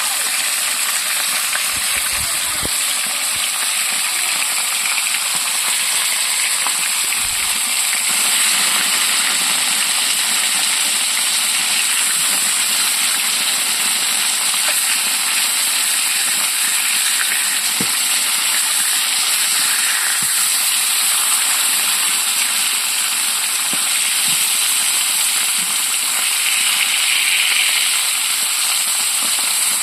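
Steady hiss of rushing water, with a few faint knocks.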